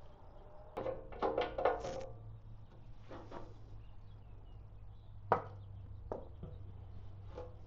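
Knocks and clinks of parts and tools being handled, a cluster of them with a short ringing note about a second in, then a few single sharp clicks, over a low steady hum.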